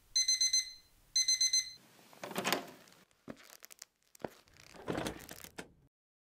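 Alarm clock going off in two short bursts of rapid, high-pitched beeping. It is followed by a few soft rustling and scraping noises with a couple of light clicks.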